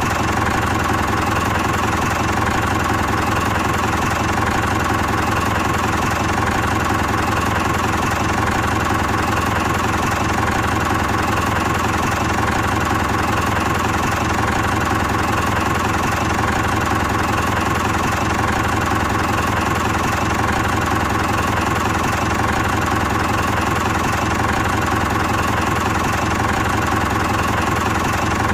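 Miniature diesel engine of a DIY toy tractor running steadily at a fast, even chug, driving a mini water pump.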